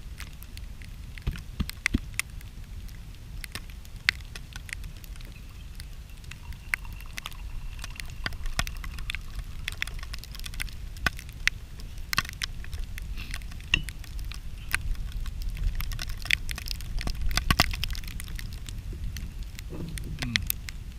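Wood campfire crackling and popping, with sharp irregular snaps that come thicker and louder in the second half, over a steady low rumble.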